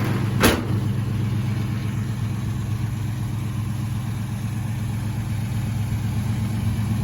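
A 305 cubic-inch small-block Chevy V8 idling steadily and smooth-sounding. There is one short knock about half a second in.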